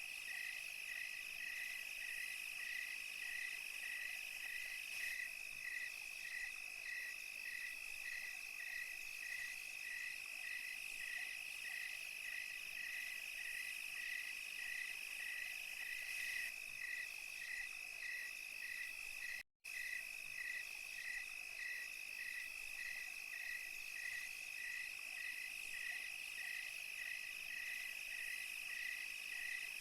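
Night insect chorus of crickets and cicadas: a steady high trill with a chirp repeating about twice a second just beneath it, and a fainter high buzz above. A split-second dropout to silence about two-thirds of the way through.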